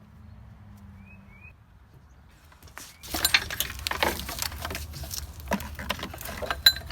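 Hand wrench working a bolt on a Jeep body: a dense run of metallic clicks and clinks that starts about three seconds in.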